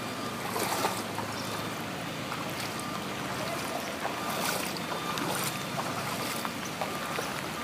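Moving floodwater making a steady rushing noise, with wind on the microphone and a few brief louder gusts or splashes.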